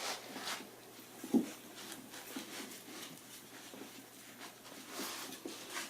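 Five-week-old Portuguese Water Dog puppies scuffling about and tugging at slippers on a hard floor: faint scattered clicks and scuffs, with one short louder sound about a second and a half in.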